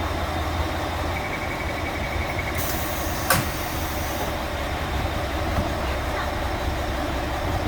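KiHa 281 series diesel railcar running with a steady low rumble while standing. About 2.5 seconds in, a hiss lasts under two seconds, with a sharp click in the middle of it, after a faint rapid beeping just before.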